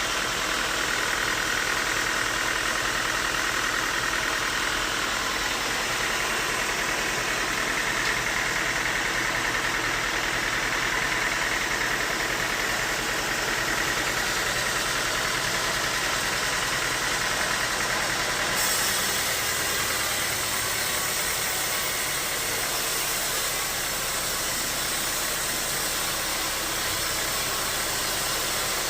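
Bandsaw sawmill running steadily, a constant mechanical din with a high whine through the first half. The sound changes abruptly about two-thirds of the way through, becoming brighter.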